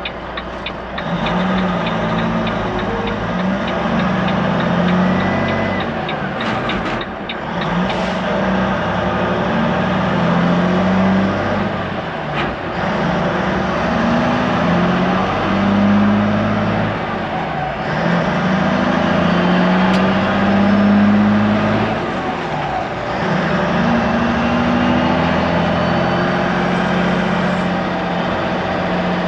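Semi truck's diesel engine pulling through the gears under load, its pitch climbing over a few seconds and dropping back at each shift, over steady road noise.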